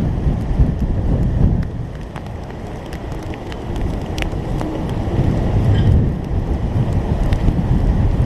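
Strong hurricane wind buffeting the microphone in gusts as a loud low rumble, with scattered sharp ticks over it.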